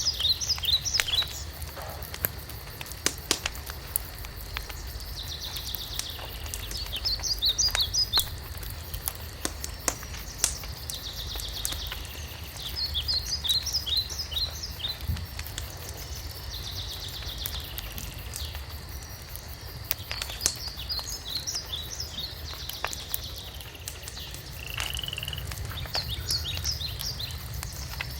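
Songbird repeating a short song of quick, high, descending notes every few seconds, between faster trills, while a wood fire crackles and pops with scattered sharp snaps. A steady low rumble lies underneath.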